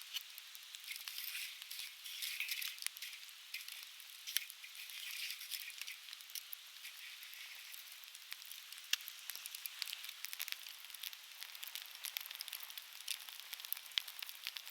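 Softwood campfire crackling, with frequent sharp pops and snaps of uneven loudness over a steady hiss.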